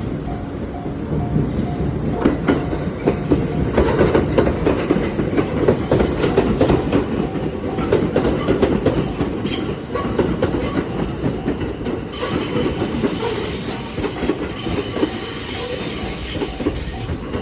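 A JR West train passing over a level crossing, its wheels clattering over the rail joints and giving a high squeal that is strongest in the second half. The level-crossing warning bell rings in a steady rhythm behind it.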